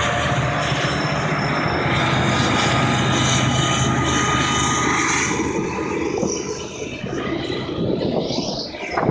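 Train passing close by: a loud, steady rumble of wheels on the rails with thin high whining tones over it, easing off in the last few seconds. There is a sharp knock near the end.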